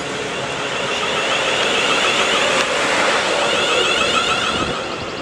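A Class 43 HST (High Speed Train) passing through the station: diesel power cars and rolling stock running by, getting louder to a peak in the middle and then fading away.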